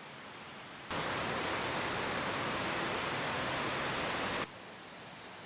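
Steady rush of a river's flowing water that starts suddenly about a second in and cuts off abruptly about a second before the end.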